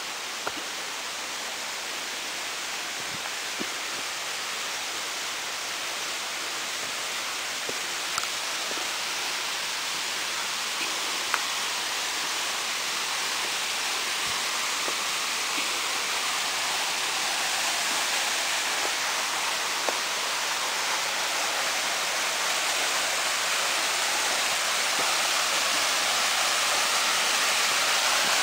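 Waterfall rushing, a steady hiss of falling water that grows gradually louder as it is approached, with a few light clicks.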